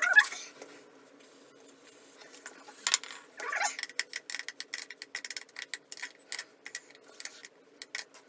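A metallic clank at the start, then a ratchet wrench clicking in fast, uneven strokes as a nut is backed off a toilet's closet bolt.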